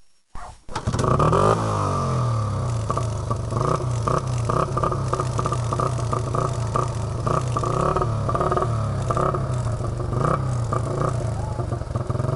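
Small Honda dirt bike engine starting about a second in, revving briefly, then idling steadily.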